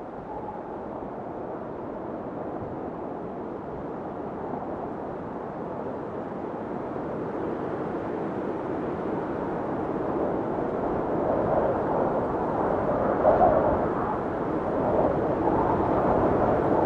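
Blizzard wind blowing, a rushing noise that slowly builds, with a short, sharper gust about three-quarters of the way through.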